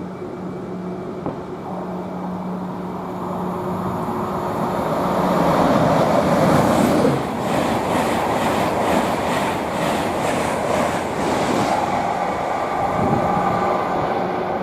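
An Intercity 225 train, a Class 91 electric locomotive with Mark 4 coaches, passes through. Its rumble builds to its loudest about seven seconds in, then gives way to a regular clatter of wheels over the rails as the coaches go by, easing off near the end.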